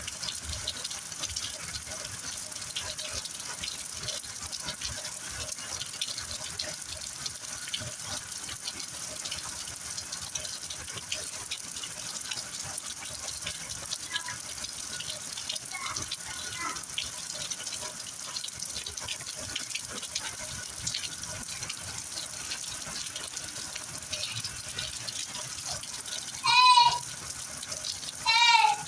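Heavy rain falling steadily, with drips and splashes. Near the end, two short, loud high-pitched calls about two seconds apart cut through the rain.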